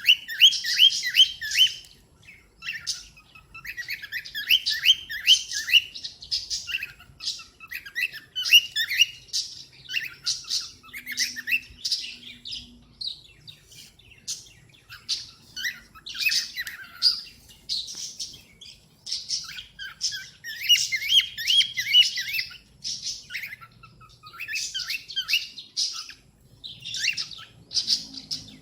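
Cockatiel chirping in quick runs of short, high notes, in bursts of a second or two with brief pauses between.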